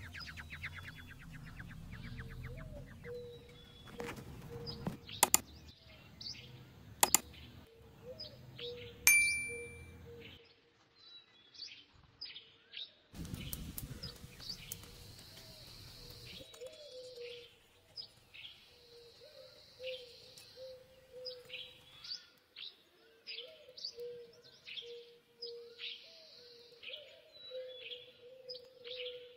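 Wild birds chirping over and over, short falling calls a second or so apart. A few sharp knife chops on a wooden board come about five, seven and nine seconds in, and the last leaves a brief metallic ring.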